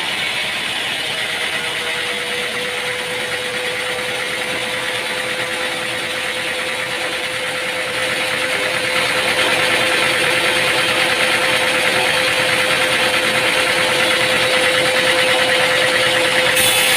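Sawmill machinery running steadily, with a constant hum over a noisy mechanical whir. It grows louder about eight seconds in.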